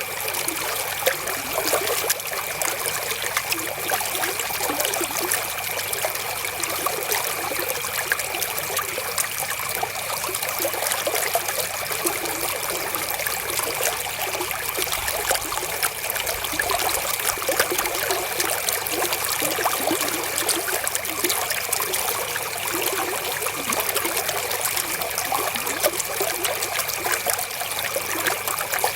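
River water flowing steadily, trickling and splashing with many small drips and ticks over a continuous rush.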